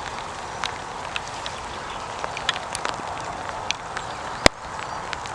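Steady outdoor background hiss with scattered light clicks and one sharp click about four and a half seconds in.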